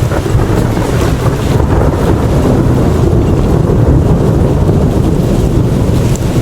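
Thunderstorm with high winds: gusts buffeting the microphone over rain, a loud, steady low rush with no break.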